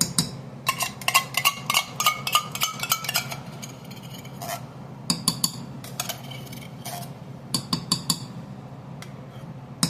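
A metal utensil clinking and scraping against cookware: a quick run of ringing taps in the first few seconds, then a few scattered clinks later, over a steady low hum.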